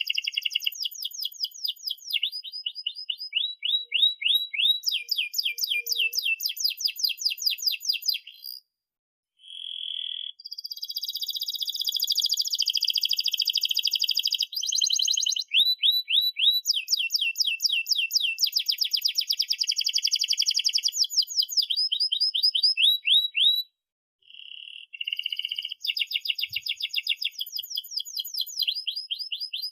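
Domestic canary singing long, fast trills of repeated notes (rolls), one trill type giving way to the next every second or two. There are short breaks about nine and twenty-four seconds in.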